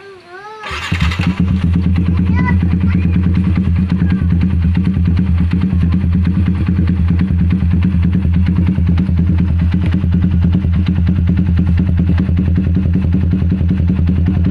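Motorcycle engine fitted with an aftermarket Pro Liner exhaust, starting up about a second in and then idling steadily with a low, rapid pulsing.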